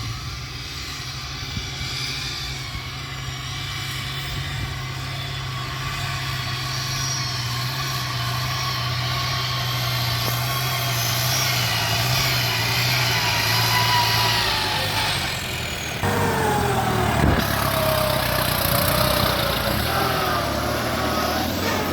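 A vehicle engine running with a steady low hum that grows louder. About two-thirds of the way through, the sound changes abruptly and wavering higher tones join it.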